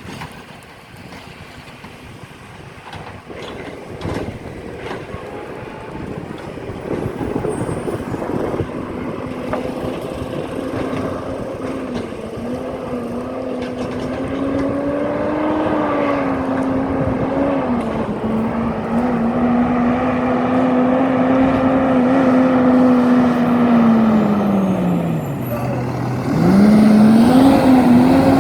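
Garbage truck's diesel engine drawing closer and growing steadily louder, with a steady droning pitch that wavers. Near the end the pitch sinks low, then jumps back up as the engine revs again.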